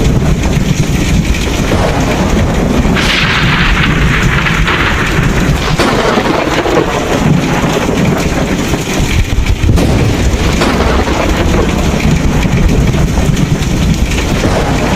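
Thunderstorm: continuous deep thunder rumbling under steady heavy rain, with a louder wash of rain hiss about three seconds in.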